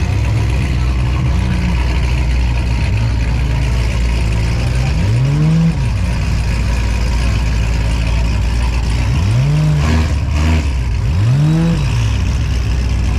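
A car engine idling under a steady low drone and revved three times, each rev rising in pitch and falling back: about five seconds in, then twice more near nine and eleven seconds.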